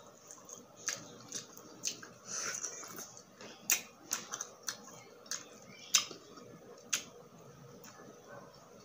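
Close-miked chewing of grilled street food, with wet lip-smacking and sharp mouth clicks at irregular intervals, the loudest about four and six seconds in.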